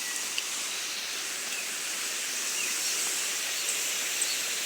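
Steady outdoor rural ambience: an even, high hiss with a few faint short ticks and chirps scattered through it.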